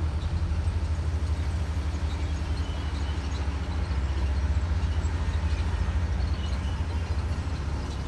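Komatsu D58E bulldozer's diesel engine running under steady load, a deep even drone.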